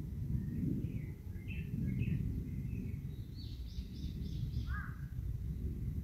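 Wild birds calling and singing: scattered chirps from about half a second in, then a quick run of about six high notes and a short falling note near the end, over a steady low rumble.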